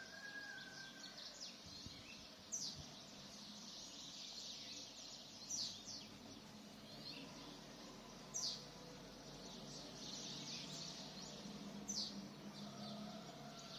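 Many small birds chirping at once. One louder, sharp falling call stands out, repeating about every three seconds.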